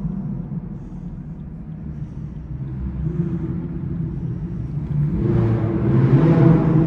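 Car engine running with a low rumble, growing louder about five seconds in.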